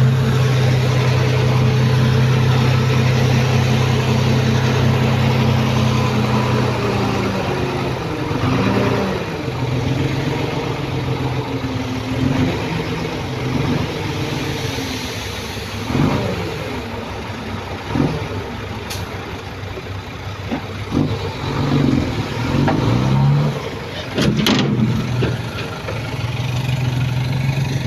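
Diesel engine of heavy earthmoving machinery running steadily, then revving up and down over and over under load from about eight seconds in, with a few knocks.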